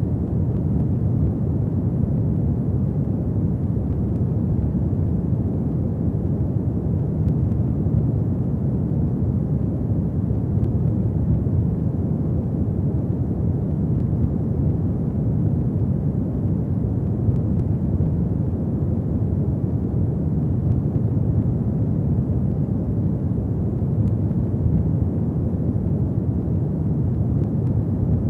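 Fireplace fire burning with a steady, low-pitched whoosh, unchanging throughout and with no distinct crackles.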